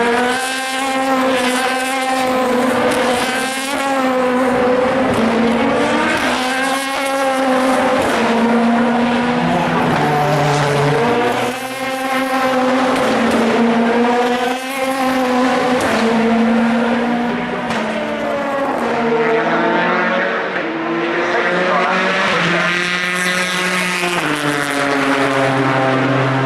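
Race cars accelerating past one after another. Engines rev up in pitch, drop at each upshift and rise again, with several cars overlapping.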